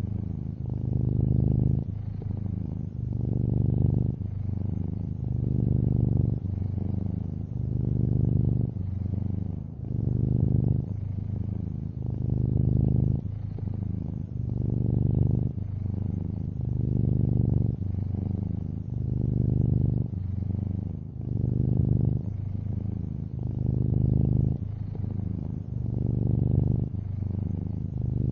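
A long-haired orange tabby cat purring: a steady low rumble that swells and eases about every two seconds as the cat breathes in and out.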